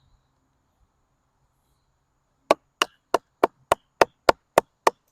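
Nine quick, evenly spaced chopping strikes of a small O1 tool-steel puukko knife biting into a piece of wood, about three a second, cutting a notch; they begin about halfway through.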